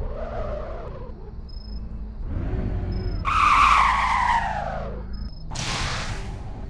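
Car tyres squealing in several bursts over a low engine rumble. The loudest is a long screech about halfway through that falls in pitch, followed by a shorter hissing burst near the end.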